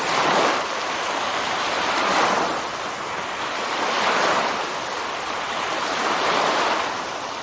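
Ocean surf breaking and washing in, swelling and easing about every two seconds.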